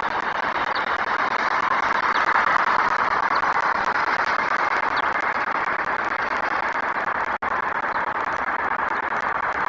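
Steady city traffic noise picked up by an outdoor webcam's microphone, swelling slightly about two seconds in, with a few faint short high chirps over it. The sound drops out completely for an instant about seven seconds in.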